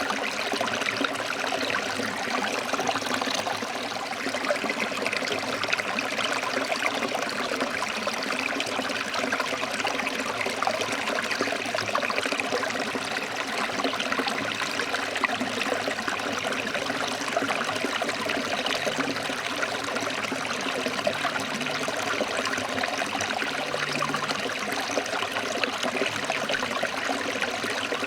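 Forest stream flowing over rocks: a steady rush of water with continual small splashes and gurgles.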